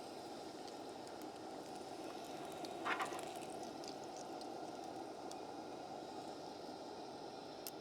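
Bacon sizzling in a pan: a steady hiss with scattered small pops, and one brief louder sound about three seconds in.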